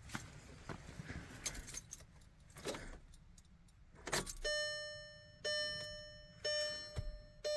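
Keys jangling, then a car's electronic warning chime sounding about once a second from about halfway through, each chime starting sharply and fading, from a Volkswagen Jetta TDI with the key in the ignition.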